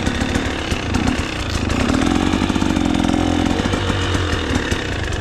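A KTM 300 XC-W two-stroke single-cylinder dirt bike engine running under load while riding. The revs rise about two seconds in and ease off again a second or so later.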